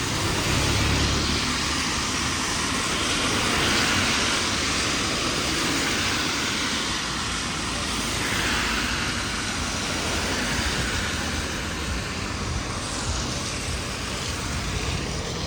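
Heavy rain falling steadily, a constant hiss, with a brief low rumble about a second in.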